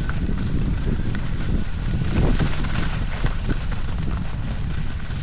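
Wind buffeting the microphone: a heavy, fluttering low rumble with a thin hiss above it.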